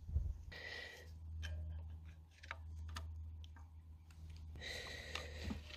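Faint scattered metallic clicks and taps of old diesel engine parts being handled as a valve-gear part is pulled out of the cylinder head, over a low steady hum.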